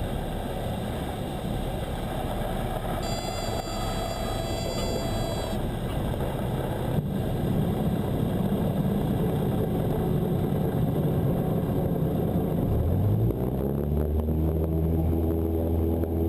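Cessna 172 heard through the cockpit intercom during a touch-and-go: a steady rush of airflow and rolling noise with the engine throttled back, and a brief high tone about three seconds in. Near the end the engine's pitch climbs and then holds steady as full power goes in for the takeoff.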